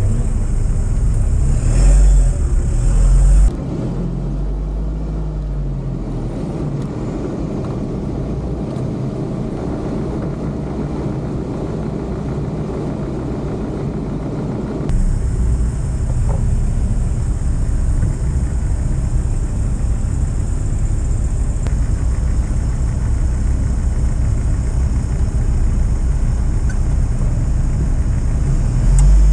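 Toyota off-road 4x4's engine running steadily at low revs, heard from inside the cab, its pitch rising and falling once about four seconds in.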